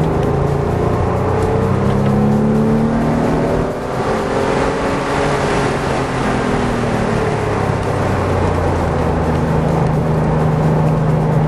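Car engine driven hard, its pitch rising and falling with the throttle as it works through the cones, over constant wind and tyre noise.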